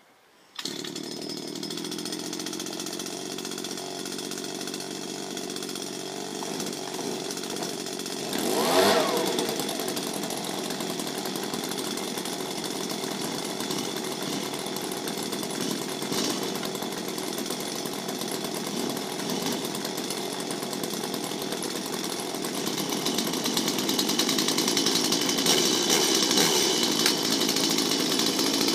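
Small Stihl two-stroke engine running steadily, revved sharply once about nine seconds in, and running louder over the last few seconds.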